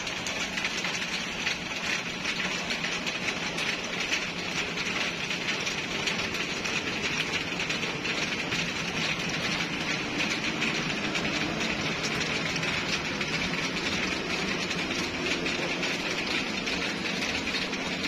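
Heavy rain falling steadily, a continuous hiss, with a faint low hum underneath.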